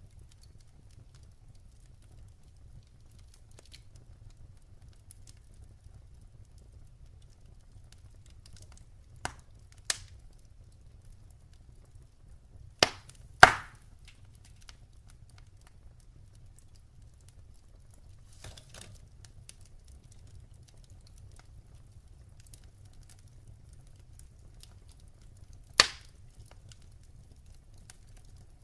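Firewood burning in a fireplace: a low steady rumble with five sharp crackling pops, the loudest two close together about halfway and one more near the end.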